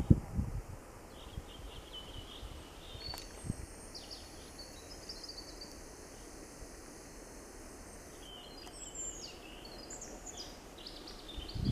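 Several songbirds singing and chirping in a spring forest, short high trills and chirps overlapping throughout over a soft outdoor hiss. Brief low thumps of wind or handling on the microphone come right at the start and again near the end.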